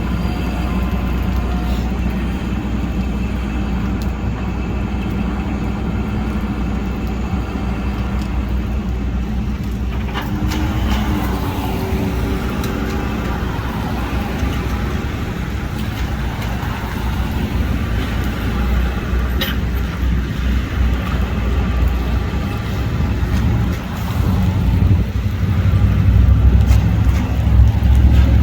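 Road traffic: a steady low rumble of vehicle engines and tyres, growing louder in the last few seconds as a vehicle comes close.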